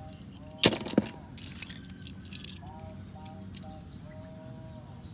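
Two sharp knocks about a third of a second apart, the loudest sounds here. Behind them, short chirping calls repeat in groups over a steady high insect drone.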